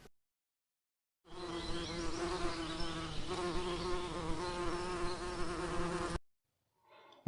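A flying insect buzzing steadily for about five seconds, starting about a second in and cutting off abruptly.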